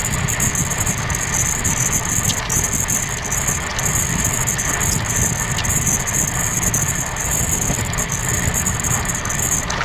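Amrit Bharat Express train under way: a steady, unbroken running noise, a low rumble with a constant hiss over it.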